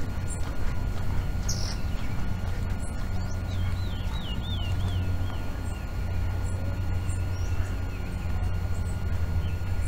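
Birds chirping, with short high notes scattered throughout and a warbling call of quick up-and-down notes from about three and a half to five seconds in, over a steady low rumble.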